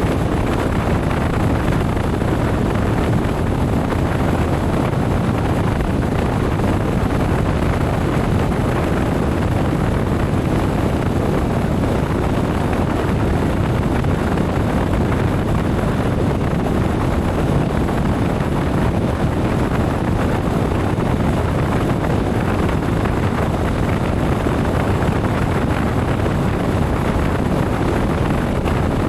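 Steady wind rush on the microphone mixed with the engine and road noise of a motorcycle being ridden at a constant speed.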